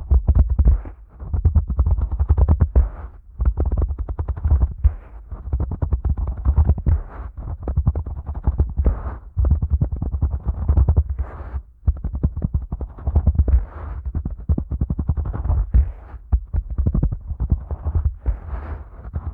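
Fingers slowly rubbing and massaging the ears of a Neumann KU100 dummy head microphone: close-up rustling and crackling over a deep rumble, in strokes of a second or two with short breaks between.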